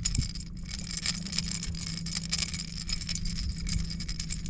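A small motor humming steadily at one low pitch, with scattered rattling and clicking over it.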